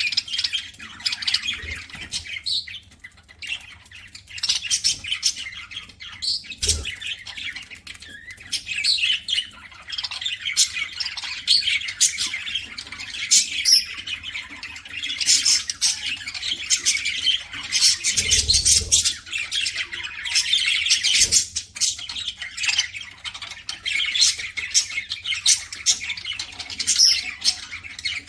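Budgerigars chattering and squawking non-stop in a busy stream of short calls, with many sharp clicks mixed in and a few dull low thumps.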